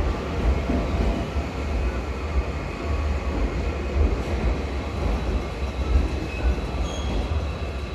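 Electric train moving along a station platform: a steady, loud rumble of wheels and running gear, with a few brief faint high tones near the end.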